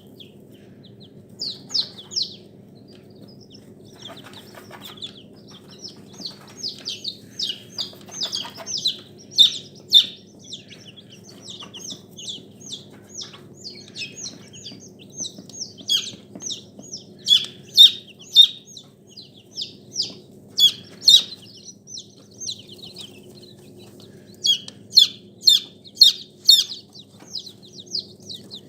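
Poultry calling: a steady stream of short, high chirps and peeps, often in quick runs of several, some louder than others, over a steady low hum.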